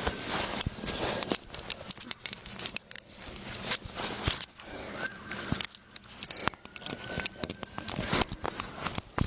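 Close-up scuffling and rustling of clothing against a police body camera during a struggle on the ground, with many quick irregular clicks and some metallic jangling.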